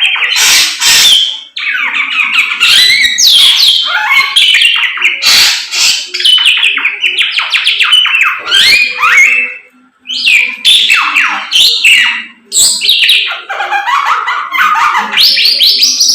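Samyong songbird singing vigorously ('gacor'): a loud, fast, varied stream of chattering and whistled phrases with quick up-and-down pitch glides, broken by a few short pauses.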